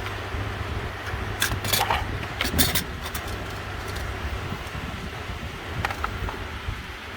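Sharp plastic clicks and rattles of wiring connectors being worked loose behind a car dashboard, bunched about a second and a half in and again briefly near the end, over a steady low hum.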